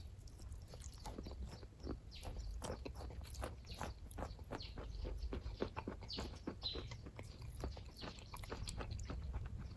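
Close-up chewing of kaju katli (cashew fudge): a run of irregular wet mouth clicks and smacks, several a second, over a low steady hum.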